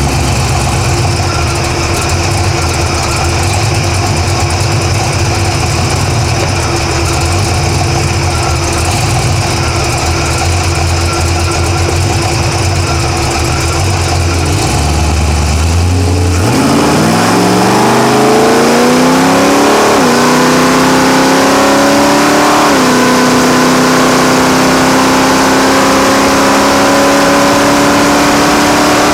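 Drag-racing Camaro engine heard close up from the engine bay: a low, steady idle for about the first half, then a launch with the engine pitch climbing hard, two gear shifts marked by sudden pitch drops a few seconds apart, and a long pull at high revs that stops near the end.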